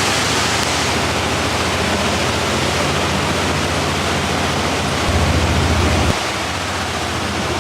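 A rain-swollen river rushing loudly under a bridge, with an engine running steadily beneath it. The engine's low rumble grows louder for about a second around five seconds in.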